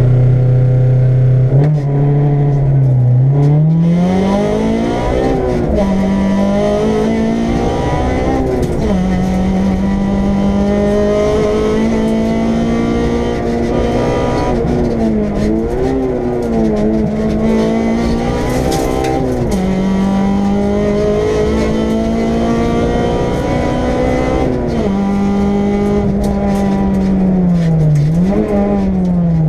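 Honda Civic EG6 rally car's four-cylinder engine, heard from inside the cabin: held at steady revs for about three seconds, then launching hard off the line and accelerating flat out through the gears, the note climbing repeatedly with a short dip at each gear change.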